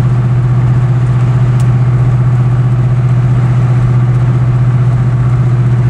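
2000 Ford Explorer's modified 5.0 L (302 Windsor) V8 idling steadily with its exhaust ports uncapped, running open with no muffling. The engine is loud, with an even, unchanging beat.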